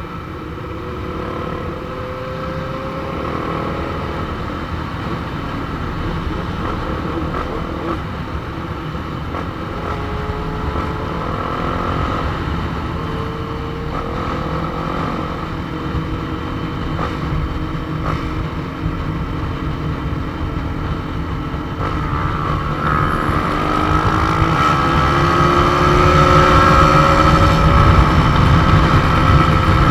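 Motorcycle engine running on the road, its revs rising and falling again and again through throttle and gear changes, over a heavy rush of wind on the rider's microphone. It gets louder about three quarters of the way through, as the engine pulls harder.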